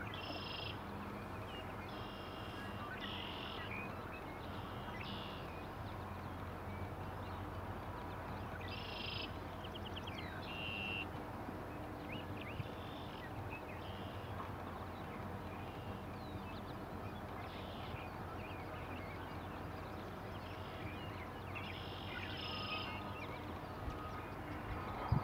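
Birds calling in short, high notes, some of them trilled, scattered every second or few, over a steady low rumble.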